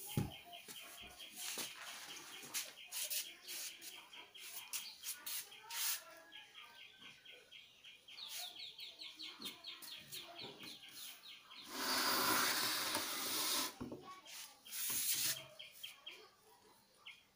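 A small bird chirping in rapid high trains, about ten chirps a second, that stop and start, with scattered clicks and knocks. About twelve seconds in comes a loud rustling hiss lasting about two seconds.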